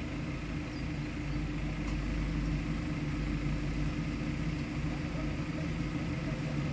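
A vehicle engine idling steadily, its low hum holding an even pitch.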